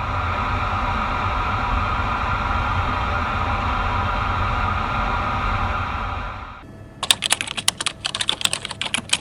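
A steady droning hum with a low rumble for about six and a half seconds, then it fades and a quick run of keyboard-typing clicks follows for the last two seconds, like a typing sound effect.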